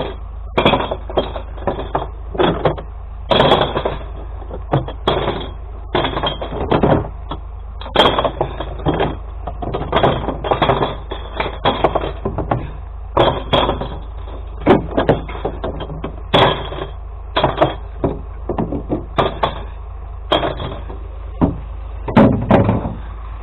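Glass bottles being tipped and thrown one after another into a glass recycling truck's colour-sorted bins: an irregular run of clinks and glassy crashes, two or three a second, over a steady low hum.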